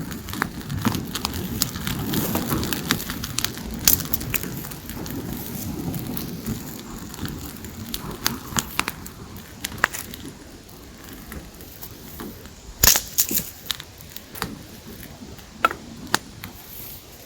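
Dry wood crackling and snapping, with irregular sharp cracks and one louder crack about 13 seconds in.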